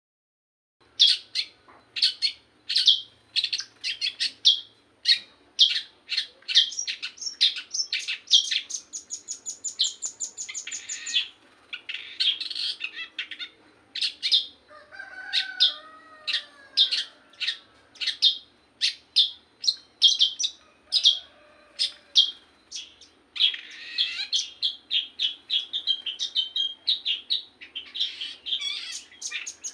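A songbird singing vigorously and without pause: rapid sharp, high chirps and fast trills, one after another.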